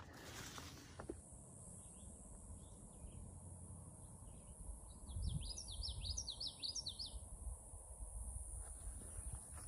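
A bird singing one quick phrase of about a dozen sweeping high notes about halfway through, after a few faint softer chirps. A low rumble runs underneath.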